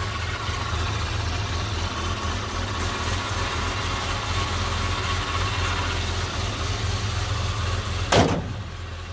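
1999 Jeep Cherokee XJ's 4.0-litre inline-six idling steadily after its first start since being wrecked. A single sharp thump comes about eight seconds in.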